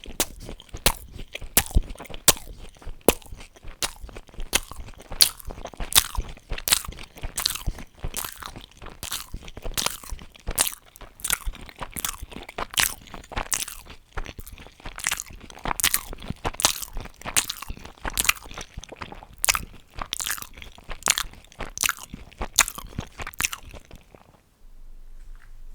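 Close-miked chewing of crunchy fried food, a sharp crisp crunch two or three times a second, which stops shortly before the end.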